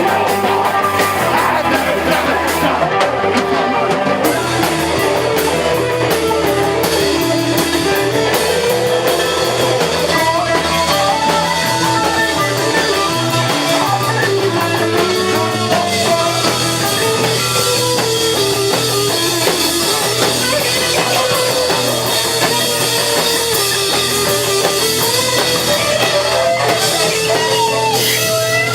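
Live rock band playing, with electric guitar and a drum kit, loud and steady.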